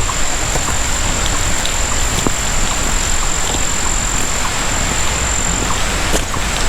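Steady rush of Tinker's Creek's flowing water, with a thin high steady tone over it and faint scattered chirps.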